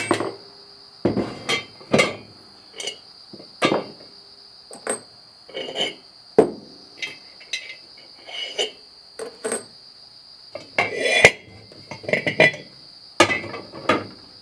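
Steel disc-harrow parts (washers, spacers and coulter discs) being taken off the gang shaft and set down, a string of irregular metal clanks and clinks, roughly one or two a second.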